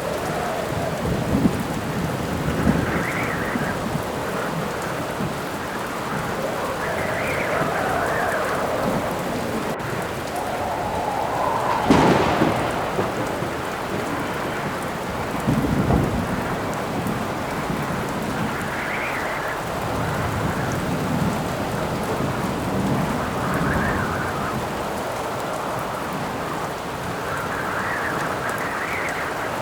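Steady heavy rain with wind howling in gusts that rise and fall in pitch. A thunderclap sounds about twelve seconds in, followed a few seconds later by another low thunder rumble.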